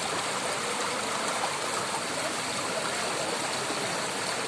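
Steady, even rush of flowing, falling water.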